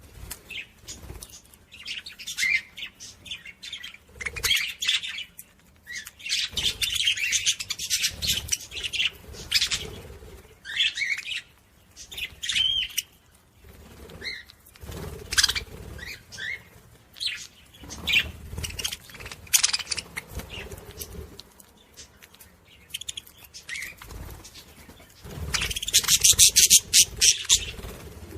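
Budgerigars chirping and warbling in irregular bursts of chatter, with a loud stretch of rapid chatter near the end.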